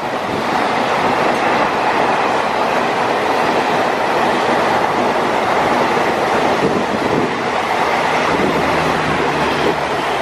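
Train passing close by: a steady, loud rush of wheel-on-rail noise.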